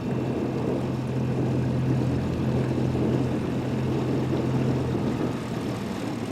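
Small boat outboard motor running steadily under way, a low even hum over rough engine and water noise; the hum drops away about five seconds in.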